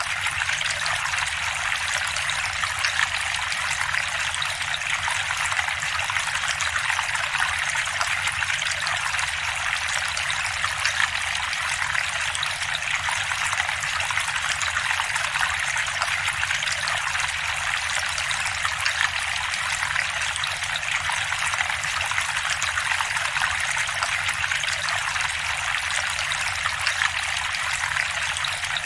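Water of a stacked slate freestanding fountain trickling and splashing steadily as it cascades down the slate tiers.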